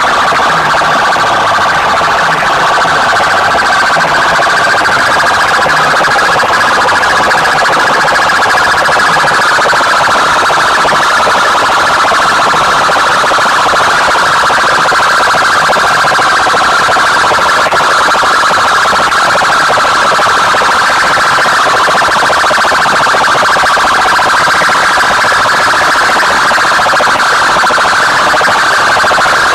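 Large DJ loudspeaker stacks blasting a very loud, distorted, siren-like electronic tone that holds steady without a break.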